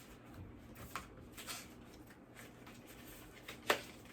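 Quiet handling noises from sorting through items, with a few light taps or knocks; the sharpest comes about three and a half seconds in.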